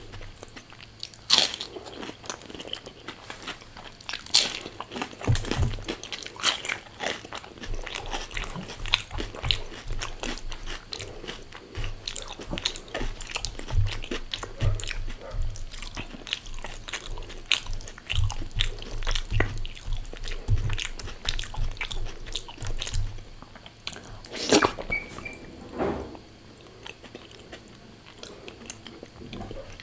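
Close-miked eating: irregular crisp bites and crunches with wet chewing of a meal of rice, dal and fried sides, continuing without pause.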